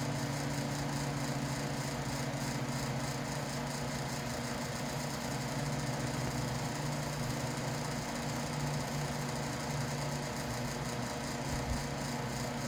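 Steady hum of an electric fan running in the workshop, a little noisy, with an even drone and no changes.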